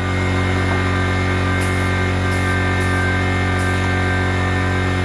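Air compressor running with a steady hum, and a spray gun hissing in short bursts several times as urethane clear coat is sprayed at low pressure, about 20 psi.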